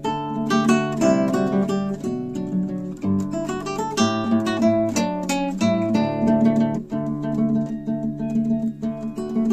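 Classical guitar music: an acoustic guitar playing plucked notes and chords.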